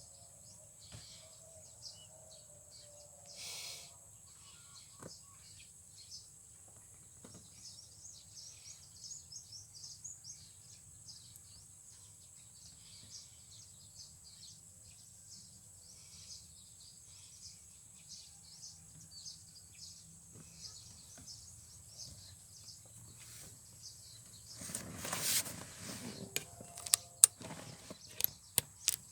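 Faint outdoor field ambience: a steady high tone with many short chirps from birds or insects over a low hum. Near the end come louder rustling and a few sharp clicks.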